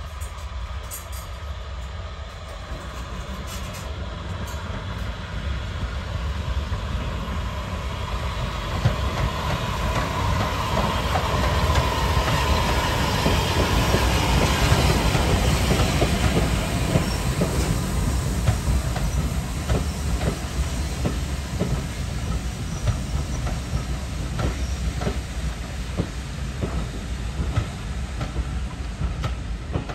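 A steam-hauled train passing. It grows louder to a peak about halfway through, then fades as the carriages go by, with wheels clicking over the rail joints.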